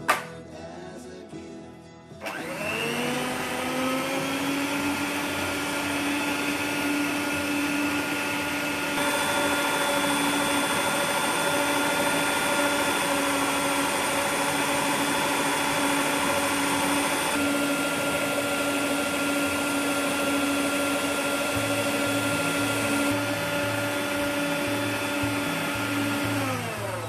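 Electric stand mixer with twin beaters creaming butter and brown sugar in a glass bowl. After a short knock at the start, the motor starts about two seconds in and rises to a steady whine. It runs steadily, then winds down just before the end.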